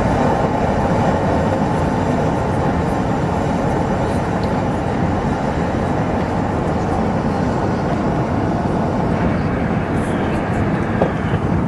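Steady rumble inside the main-deck cabin of an Airbus A380 during takeoff, a dense even noise with strong low rumble and no distinct engine tone.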